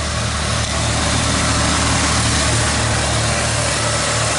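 1985 Ford F-250 engine running steadily with an even low pulse, smooth after a fresh tune-up.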